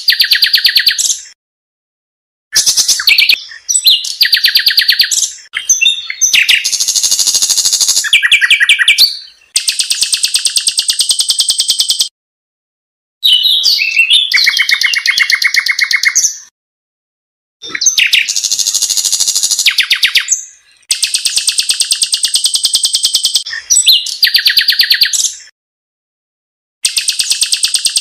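Song of a pancawarna bird: loud, high-pitched phrases of fast, evenly pulsed trills, some carrying a steady high whistle, each lasting one to three seconds, with short silent gaps of about a second between them.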